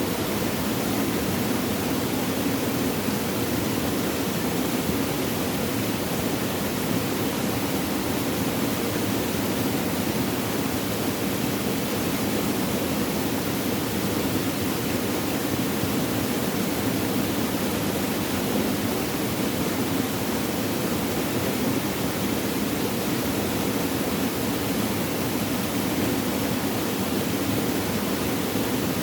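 Flowing, trickling water running steadily as one even rushing sound, with no breaks or changes.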